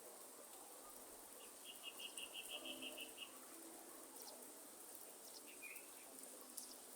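Quiet forest ambience in light rain. A bird gives a rapid trill of about ten even high notes a couple of seconds in, then a short chirp near the end, over a faint steady high insect hiss and scattered faint drip ticks.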